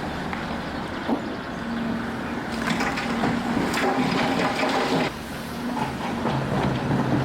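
Demolition machinery's diesel engine running steadily, with a knock about a second in and a spell of clattering and crunching rubble between about two and a half and five seconds in.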